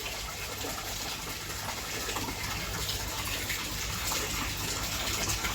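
Steady running water splashing into the koi tanks of a hatchery.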